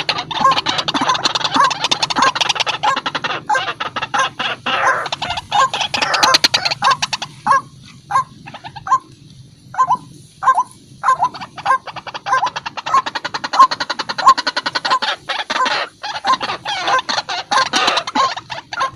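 White-breasted waterhen (ruak-ruak) calling without a break: a harsh, rasping run of notes over a steady series of short croaks, about three a second, easing briefly about halfway through. It is a lure recording of the bird's call, played to draw waterhens in.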